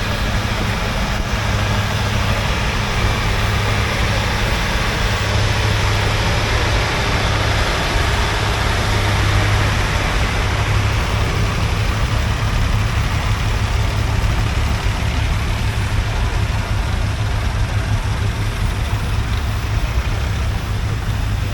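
Vintage farm tractor engine running steadily, with a continuous low drone.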